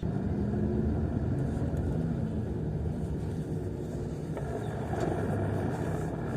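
Hyundai Santro's 1-litre four-cylinder engine running while the car is driven, with road noise: a steady low rumble that cuts in suddenly.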